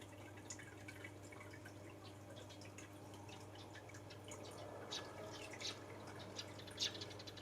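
Eurasian tree sparrows chirping in many short, high chirps, with a few louder ones about five and seven seconds in, over a steady low hum.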